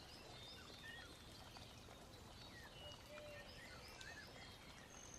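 Faint birds chirping: many short, whistled calls, some rising and some falling, over a low background hiss.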